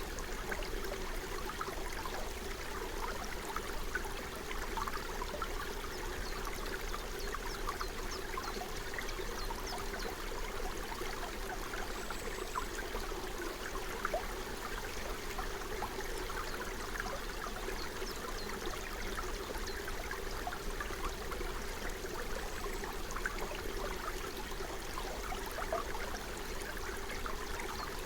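Forest stream flowing steadily, with many small gurgles and splashes of running water.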